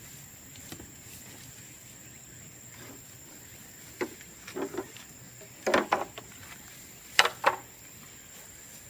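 Bamboo burning in an open bonfire, crackling and popping: a few small pops about four seconds in, a burst of louder cracks just before six seconds, and two sharp pops, the loudest, about a second later.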